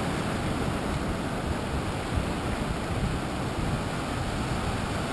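Ocean surf from a large swell at high tide, a steady wash of breaking waves.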